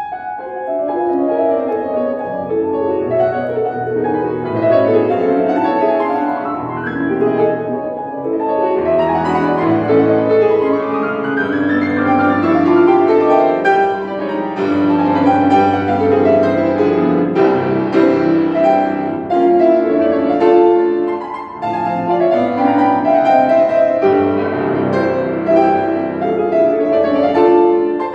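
Solo piano music in a classical style, with sustained chords and melody notes and a rising run of notes about ten seconds in.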